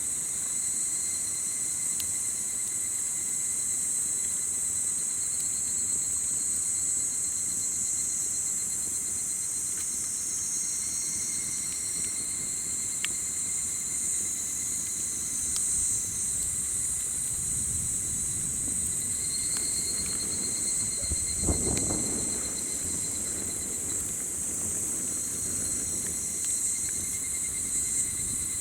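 A steady chorus of insects singing on a summer evening: a high, continuous hiss-like trill, with a second insect pulsing on a steady, lower pitch. A few faint crackles come from a campfire, and a low rumble swells and fades about two-thirds of the way through.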